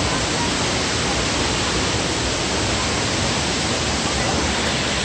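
Steady, even rush of a waterfall, water pouring out through caves in a rock bluff and crashing down.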